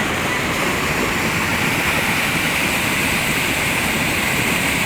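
Floodwater rushing down a stream swollen by a heavy downpour: a loud, steady roar of white water.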